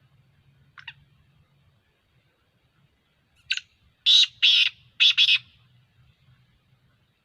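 Black francolin calling: one short faint note about a second in, then a loud, harsh phrase of four rasping notes starting about three and a half seconds in, the last three loudest.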